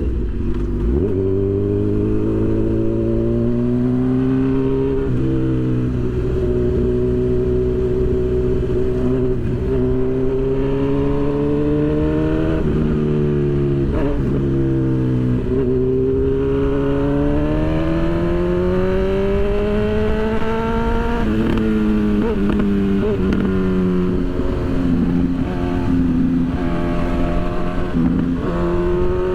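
Honda CB1000's inline-four engine under way, revving up through the gears: the engine note climbs, drops sharply at each upshift or throttle-off several times, then climbs again.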